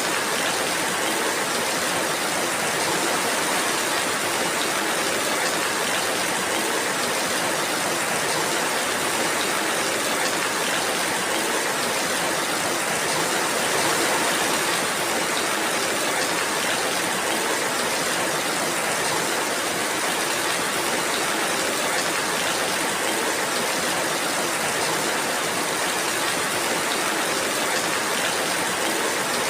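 Steady rainfall: an even, unbroken hiss of rain that holds constant throughout.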